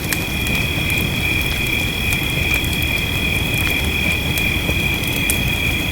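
Fireplace crackling with scattered sharp pops over a low rumble, under a steady high chorus of crickets singing at two pitches.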